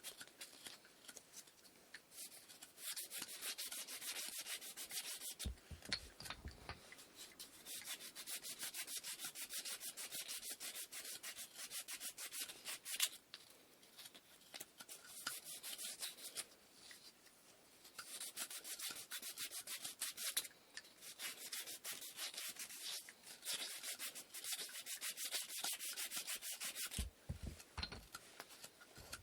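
Wooden inkle loom parts being sanded by hand with sandpaper. The quick back-and-forth strokes come in runs of a few seconds, with short pauses between them and a couple of soft low bumps.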